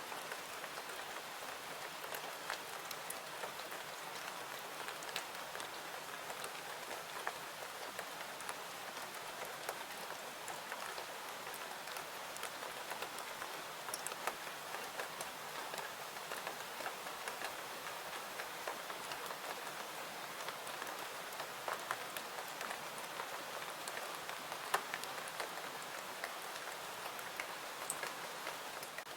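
Steady rain falling: a continuous even hiss with many scattered sharp little ticks throughout.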